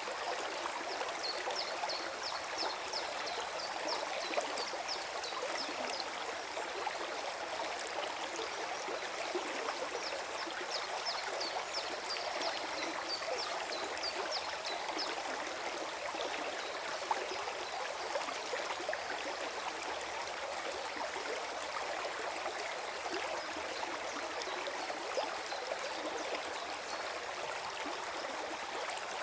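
Forest stream gurgling steadily, an even rush of flowing water, with two brief runs of faint high-pitched ticks in the first half.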